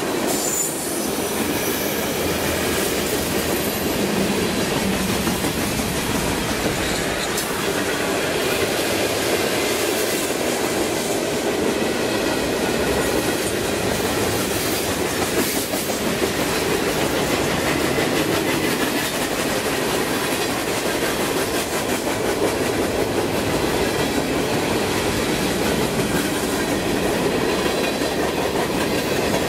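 Freight cars of a CN freight train, tank cars and covered hoppers, rolling steadily past: a continuous rumble of steel wheels on the rails with rhythmic clickety-clack and a faint wheel squeal at times.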